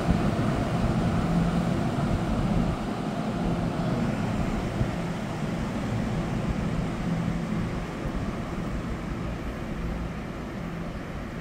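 NJ Transit double-deck commuter train pulling out of the station, its rumble and low hum fading steadily as it moves away.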